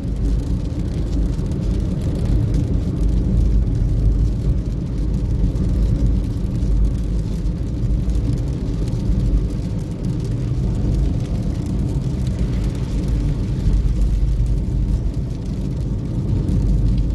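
A car driving: steady, low engine and road noise that holds without a break.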